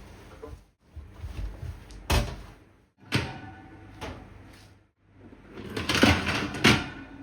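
Knocks and clatter of hard objects being handled while a grill is cleaned: a sharp knock about two seconds in, another a second later, and a louder run of clattering near the end.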